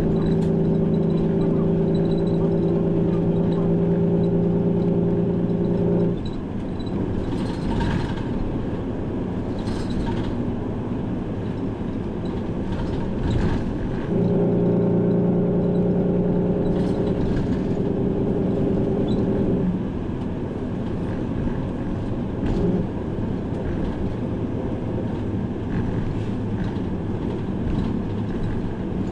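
Interior of a Kumamoto Bus city bus on its route: steady engine and road noise. A steady multi-tone drone runs for the first six seconds and again from about 14 to 19 seconds, each time cutting off abruptly, with a few short hisses in between.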